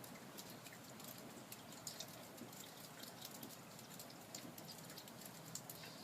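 Faint light rain: scattered drops ticking irregularly over a soft steady hiss.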